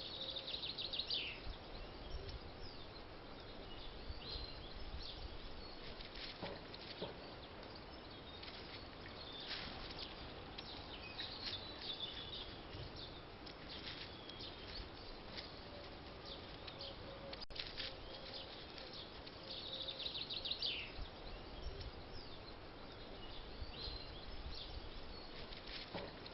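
Garden birds singing and calling faintly over a low outdoor rumble, with a short descending trill about a second in that recurs about twenty seconds in. A single sharp click comes about seventeen seconds in.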